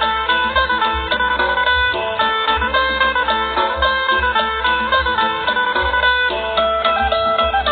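Isan phin, the plucked Thai lute, playing a fast, busy melody over a steady low beat.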